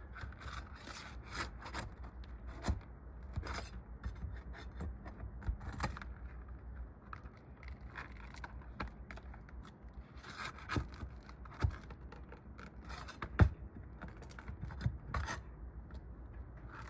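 Metal tool prying and scraping at roofing nails under an asphalt shingle, with scattered clicks and taps as the nails are worked loose, and one sharper knock about 13 seconds in.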